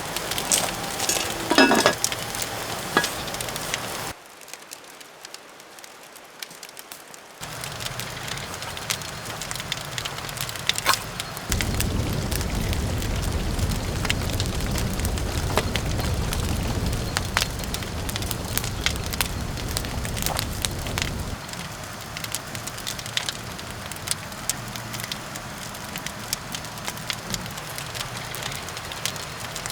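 Campfire crackling, with many sharp pops scattered through. The sound changes abruptly a few times: it drops quieter for about three seconds early on, then a louder low rushing stretch runs for about ten seconds in the middle.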